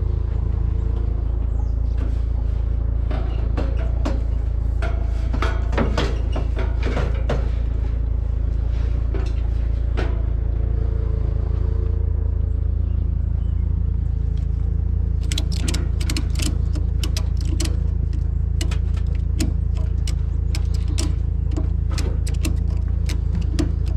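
Pickup truck running with a steady low rumble, with scattered sharp clicks and knocks that come thick and fast from about halfway through.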